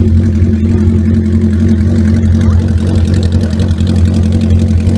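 Motorcycle engine running steadily at idle, close by, with an unchanging low hum.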